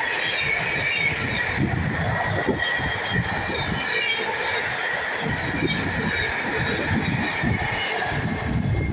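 Freight train behind Class 66 diesel locomotive 66421 rolling past, its wagons' wheels rumbling on the rails under a steady high squeal from the wheels. The squeal dies away near the end as the train clears.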